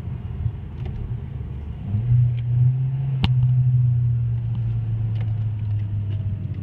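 Hyundai Genesis Coupe's engine heard from inside the cabin while driving: a steady low hum whose pitch steps up about two seconds in as the car accelerates, then slowly sinks back. A single sharp click sounds a little past the middle.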